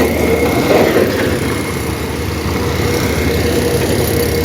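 Dump truck's diesel engine running steadily, with a brief louder swell just before a second in.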